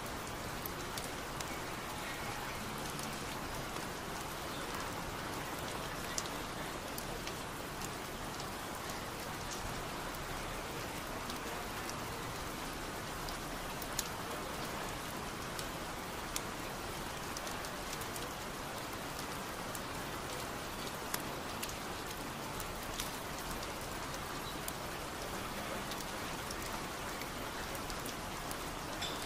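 Steady rain falling, an even patter with single sharper drop ticks standing out every few seconds.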